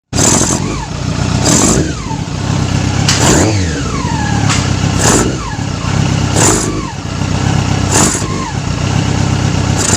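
Yamaha R6 inline-four engine running while the throttle is blipped about every one and a half seconds, the revs jumping and then falling back each time, until the engine cuts out at the very end. It runs erratically and stalls when revved, which the mechanic puts down to the carburettors being out of synchronisation.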